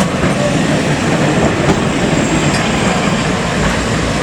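Heritage electric tram running on its rails: a steady, loud rumble and rattle of the wheels on the track.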